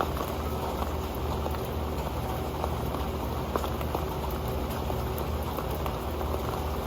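Steady rain with many drops ticking and pattering on an old metal pan.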